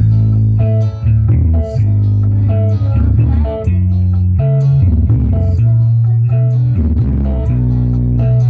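Loud music with a prominent bass guitar and guitar, played through a large PA sound system. Heavy sustained bass notes change every second or so under plucked guitar.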